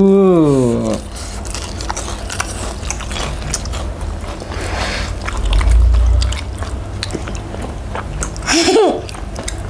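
Close-miked eating sounds: chewing, biting and wet mouth clicks as soft fried cheese sticks and fish sticks are eaten. There is a hummed 'mmm' at the start, a low thump around the middle, and a short vocal sound near the end.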